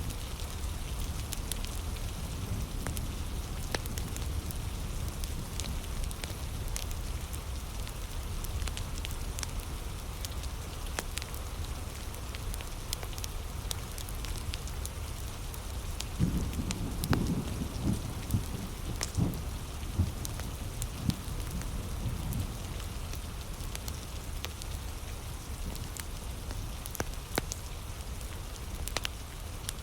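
Heavy rain falling steadily, mixed with a wood fire crackling in scattered sharp pops. About halfway through comes a run of louder, lower pops.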